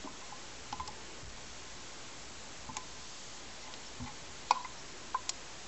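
A few small clicks and taps from a diecast metal toy bulldozer being handled, its blade moved up and down by hand; the sharpest click comes a little past the middle.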